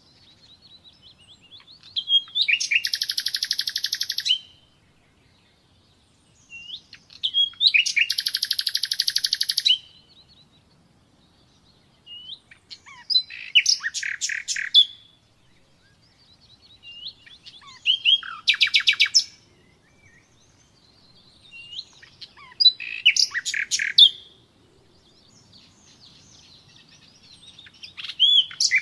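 Nightingale singing: a series of loud, rapid rattling and repeated-note phrases, each about two seconds long and introduced by soft rising whistles, with short pauses of a few seconds between them.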